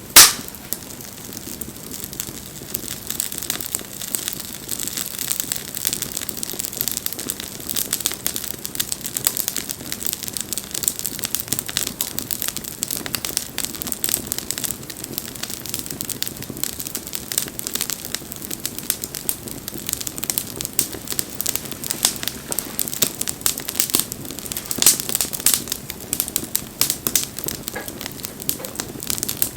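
Wood bonfire crackling, with a dense run of irregular small pops and snaps throughout and one much louder, sharp pop right at the start.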